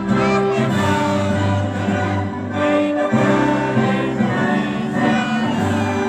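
Women's choir singing, the voices holding long notes over an instrumental backing.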